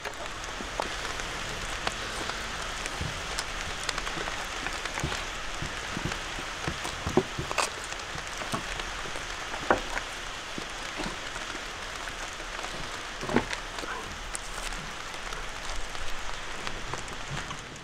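Steady rain falling, an even hiss of drops with scattered sharper ticks and taps.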